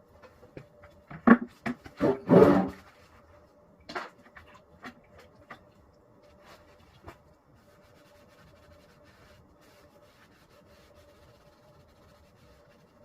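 Several sharp knocks and a short scraping clatter about one to three seconds in, then a few lighter taps, over a faint steady hum: objects being handled and set down on a hard surface.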